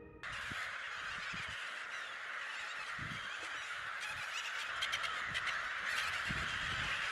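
Dense chorus of a large breeding gull colony, many birds calling at once in a continuous clamour. It begins abruptly just after the start.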